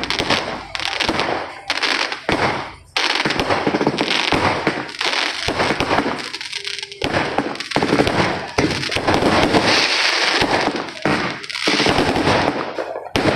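Consumer fireworks and firecracker strings going off, a dense, nearly continuous barrage of rapid bangs and crackling with short lulls.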